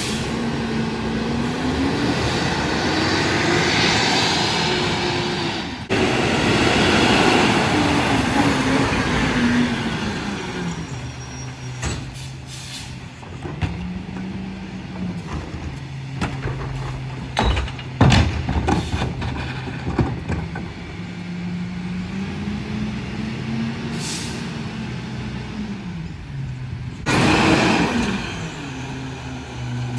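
Freightliner M2 McNeilus rear-loader garbage truck at work: its engine revs up and falls back several times, with a loud rushing noise over the first ten seconds. Sharp knocks and bangs come in the middle, and a short loud air hiss near the end.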